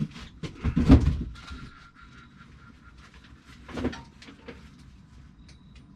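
Handling clunks and knocks of wood and metal at a wood lathe, the loudest about a second in and another near four seconds, as a loosened workpiece is worked free of its faceplate.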